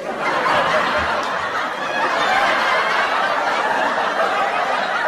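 A crowd of many voices laughing and chattering at once, a dense steady din.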